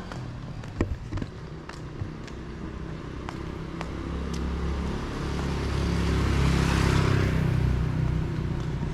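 A motor vehicle passing close on a city street, its engine rumble and tyre noise building to a peak about seven seconds in and then easing off. A few sharp knocks come in the first two seconds.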